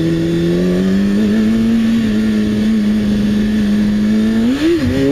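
Motorcycle engine running under steady throttle, its pitch rising slightly about a second in and then holding. Near the end it gives a quick rev up and back down before settling again.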